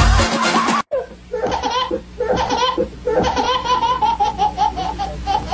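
Music playing loudly cuts off suddenly about a second in. A baby then laughs in a long run of quick, rhythmic bursts, about four a second.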